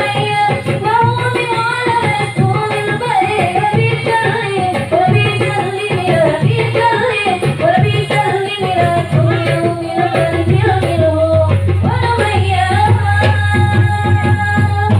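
Marawis ensemble playing: hand drums beating a dense, steady rhythm under a voice singing an Arabic devotional song (sholawat) with a wavering melody.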